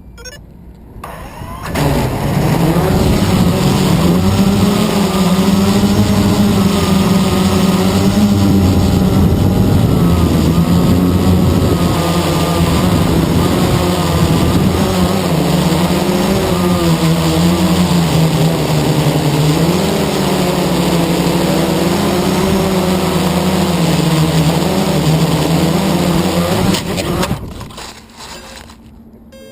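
Quadcopter motors and propellers humming loudly, the pitch wavering up and down as the throttle changes. The sound starts suddenly about two seconds in and cuts off suddenly near the end.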